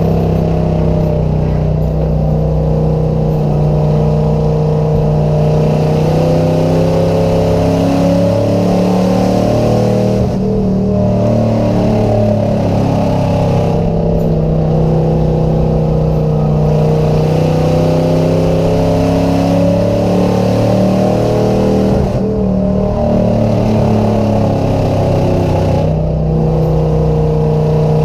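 Race car engines running hard in a chain car race, with a constant low drone under an engine note that rises and falls. The high end dips briefly about every four seconds, as if the throttle lifts for each turn.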